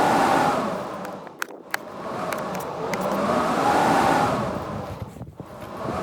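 Blizzard wind gusting, swelling and easing about every four seconds with a rising and falling pitch, and a few faint ticks in the lull between gusts.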